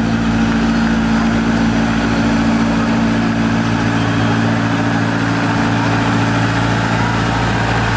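Vehicle engine idling steadily close by, a low, even hum that does not rise or fall.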